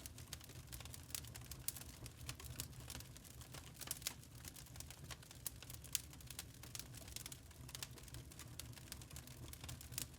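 Wood fire crackling in a fireplace: many small irregular pops and snaps, a few sharper ones, over a low steady rumble.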